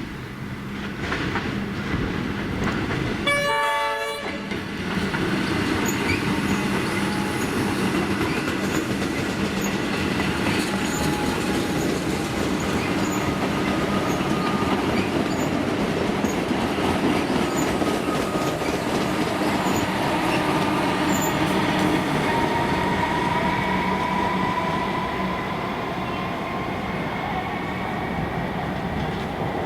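A train sounds its horn once for about a second, then runs past with a steady rumble and rattle of wheels over the rails and faint high whining tones.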